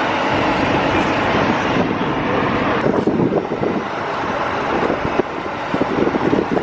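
Bus running on the road: steady engine and road noise, becoming rougher and more uneven about three seconds in.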